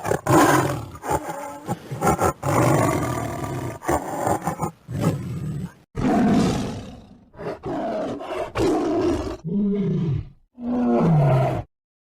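A large animal roaring and growling in a string of loud calls. The last two calls drop in pitch, and the sound cuts off abruptly about a second before the end.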